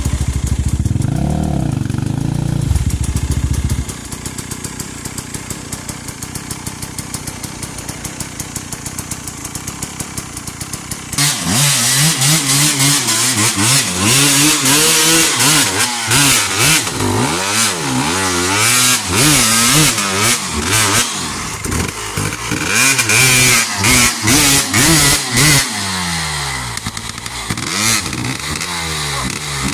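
Off-road trail motorcycle engine revving hard. The revs swing up and down over and over, with a quieter stretch of low, steady running in between that begins about four seconds in and ends about eleven seconds in.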